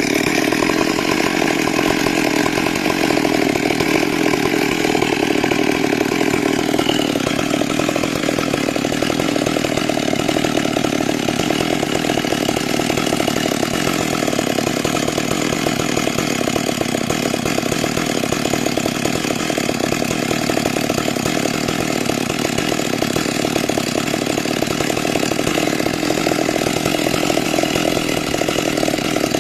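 Chainsaw running steadily under load, sawing timber into 6 cm × 6 cm rafters; the engine note drops slightly about seven seconds in.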